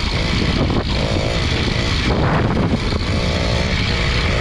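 Small engine of a motorized pedal bicycle running steadily under way.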